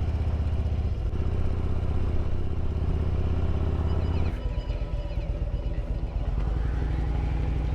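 Harley-Davidson V-twin motorcycle engine running steadily under way; about four seconds in its note changes and it gets a little quieter.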